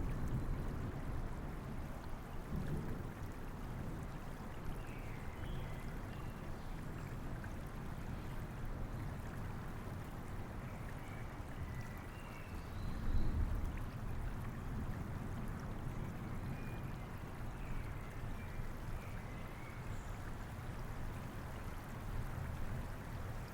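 Steady rain mixed with a flowing river. A low rumble of distant thunder swells about halfway through, and faint birds chirp now and then.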